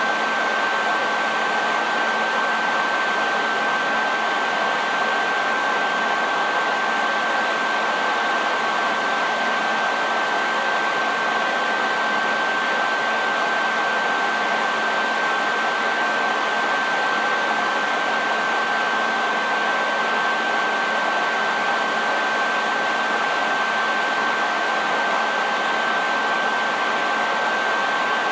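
Hair dryer running steadily: an even airy rush with a constant high whine from the motor and fan, unchanging throughout.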